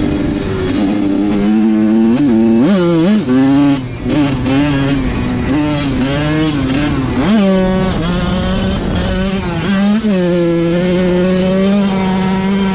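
Dirt bike engine revving, its pitch rising and falling several times, with a sharp rise about seven seconds in, then holding steady at high revs near the end.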